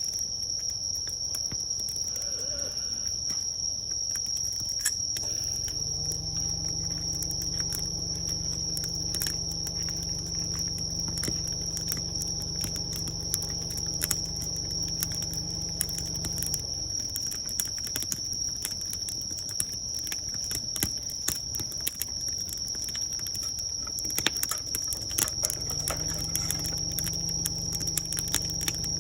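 Wood fire crackling with scattered sharp pops, over a steady high trill of crickets. A low droning hum comes in a few seconds in, stops about halfway, and returns near the end.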